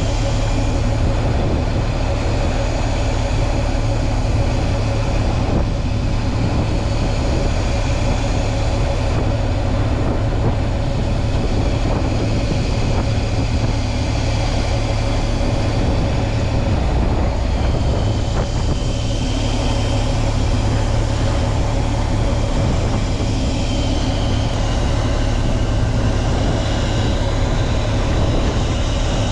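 Fishing boat's engine running steadily, a continuous low drone with a constant hum.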